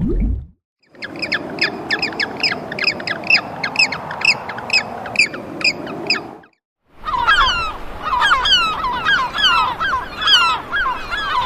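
Birds calling in quick series: short repeated chirps at about four a second, then, after a brief break, a run of rapid downward-sliding calls.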